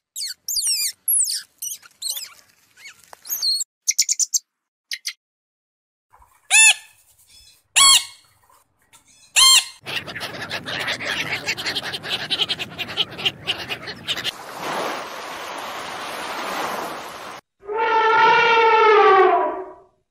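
A sequence of different animal calls: quick high bird chirps, then three loud short calls about a second and a half apart, then a noisy stretch of several seconds, and near the end one long call that falls in pitch.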